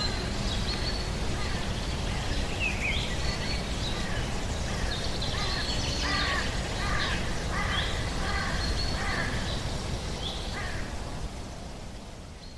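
Birds chirping and calling in short, quick notes over a steady rushing background noise. The whole bed fades out near the end.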